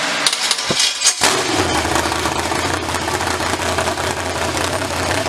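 Freshly built 385 cubic inch V8 running on an engine stand during its first start-up. A couple of short loud bursts come in the first second or so, then it settles into a steady idle.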